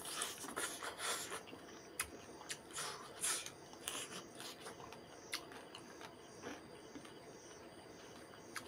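A person eating rice and fried fish with his hand, making short, wet chewing and mouth sounds that come thickest in the first few seconds and thin out after, with a few sharp clicks.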